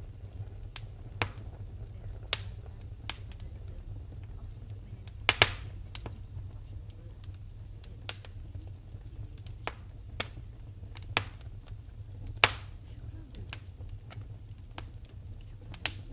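Wood fire in a fireplace crackling: sharp, irregular pops at uneven intervals, two of them louder (about five seconds in and about twelve seconds in), over a steady low rumble.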